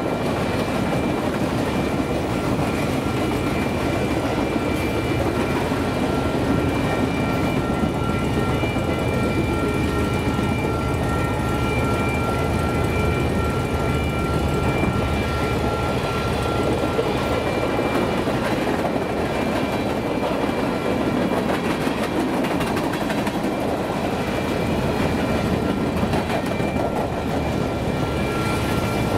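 Freight cars of a Union Pacific freight train rolling past at steady speed: a continuous rumble of steel wheels on the rails. A faint steady high ringing runs through much of the middle.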